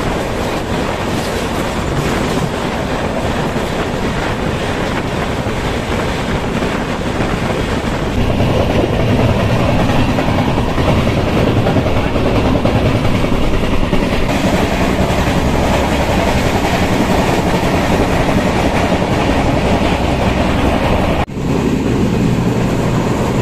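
Running noise of a moving Indian Railways express passenger coach, heard at its doorway: wheels clattering over the rails with a steady rumble. It grows louder about eight seconds in and dips briefly near the end.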